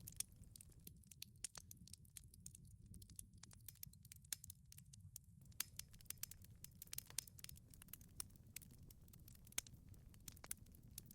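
Wood fire in a wood-fired pizza oven crackling faintly: irregular sharp pops and snaps, several a second, over a low steady rumble.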